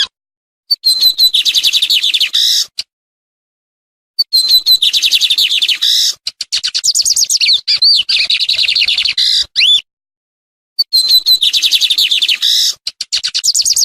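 Lined seedeater (bigodinho) singing: rapid runs of high, harsh, chattering notes in three phrases, the middle one longest. The phrases are separated by abrupt, completely silent gaps where the recording has been cut.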